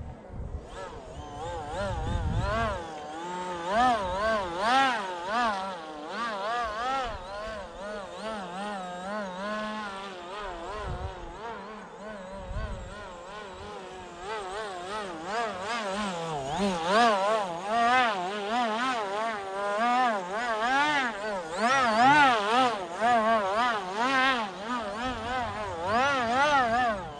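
Small brushless electric motor and propeller of an RC flying model buzzing in flight, its pitch wavering up and down without pause and growing louder in the second half. Low wind rumble on the microphone a couple of times in the first half.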